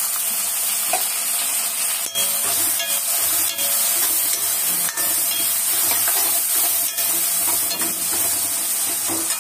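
Chopped tomatoes, onions and green chillies sizzling in hot oil in a metal kadai while a steel ladle stirs them, scraping the pan with a few sharp clicks.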